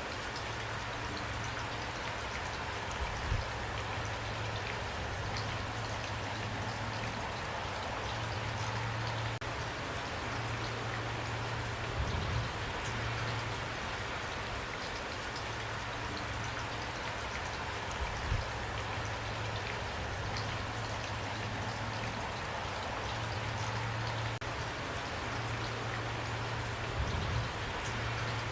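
Steady rain falling, a dense even patter of drops, with a soft low rumble underneath and four brief low thumps spread through it.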